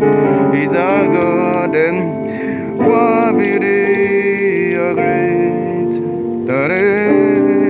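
Keyboard playing sustained, full chords of a worship melody, with a man's voice singing the melody over them in a few short phrases.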